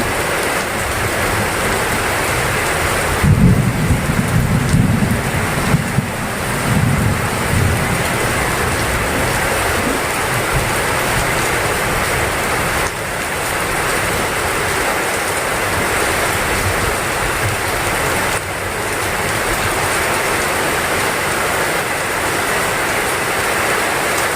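Heavy rain falling steadily, a dense even hiss. A few seconds in, thunder rumbles low for about five seconds, then fades back under the rain.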